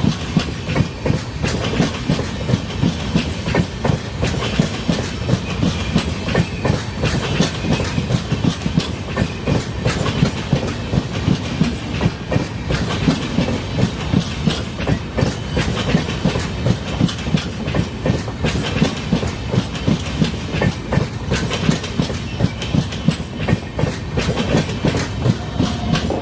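Train wheels clattering over rail joints: a steady rumble with repeated regular knocks, roughly one to two a second.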